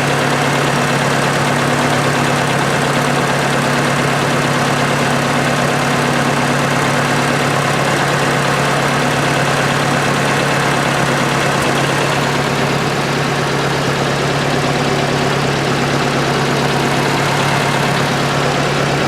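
Ford Model 600 tractor engine idling steadily.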